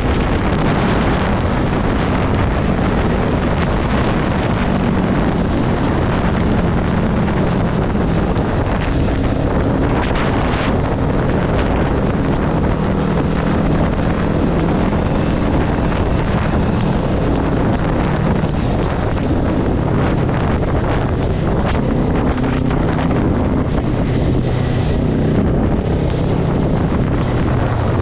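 Wind rushing over the microphone while a Kawasaki Ninja 400 is ridden, with its parallel-twin engine humming underneath, its pitch shifting a little.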